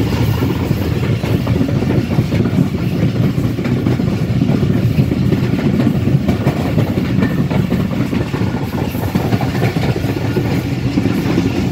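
Passenger train running at speed, a steady loud rumble of the coach and its wheels on the track, heard from on board.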